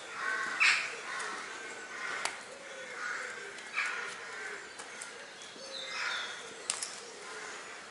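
Intermittent harsh bird calls: short calls come every second or so, with a few sharp clicks among them.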